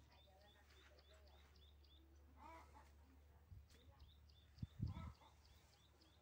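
Near silence with a small bird chirping over and over, short high chirps about three a second. A few low thumps come about five seconds in.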